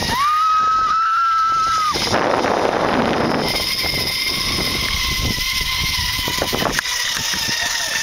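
Zip-line trolley pulleys running along the steel cable with a steady high whine, over wind rushing past the microphone. The whine drops out for a moment about two seconds in and returns at a slightly lower pitch.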